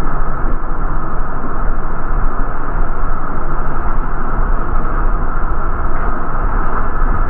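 Steady drone of an MTA city bus running, engine and road noise heard from inside the bus.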